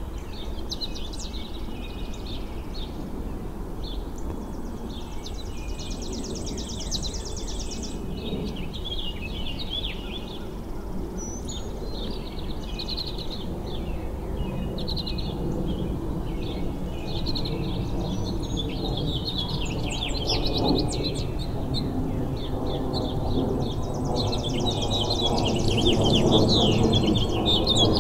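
Songbirds chirping and calling all around, with two long, even buzzy trills, over a low background rumble that grows louder toward the end.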